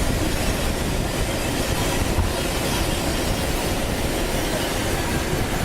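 Steady rushing of air over a glider in flight, heard from inside the cockpit.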